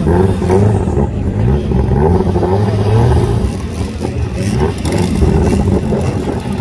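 Car engines revving on the start line before a drag launch, the pitch rising and falling several times over a steady low running note.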